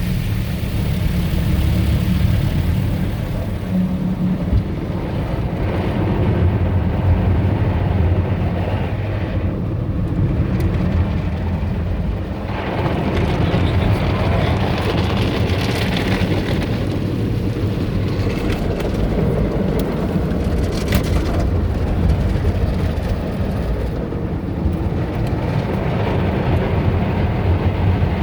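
Automatic tunnel car wash running around a car, heard from inside the cabin: a steady low machinery rumble, with a swell of spraying and brushing noise about twelve seconds in.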